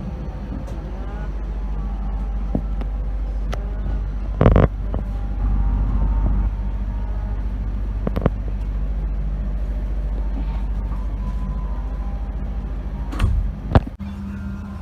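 Steady low mechanical rumble of a passenger train, with a few sharp knocks: a loud one about four and a half seconds in and two more near the end.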